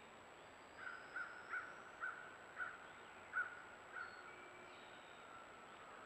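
A bird calling about seven times in a quick series, roughly two calls a second, over the first few seconds. Fainter bird calls sound in the background.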